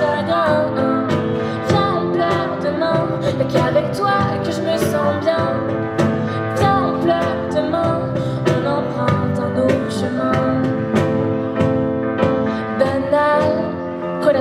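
A pop song: a female voice singing over instrumental backing with a steady beat.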